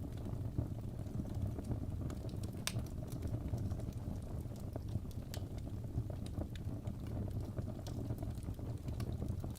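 Crackling wood fire: irregular sharp pops and snaps over a steady low rumble.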